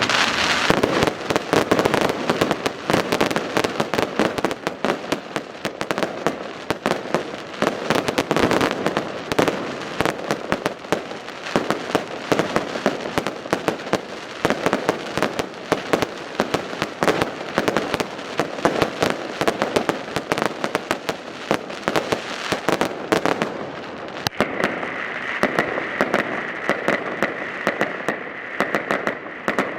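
Fireworks display: dense, continuous crackling made of many rapid pops and bangs from bursting shells. About three-quarters of the way through, a steady high whistle joins the crackling and holds on.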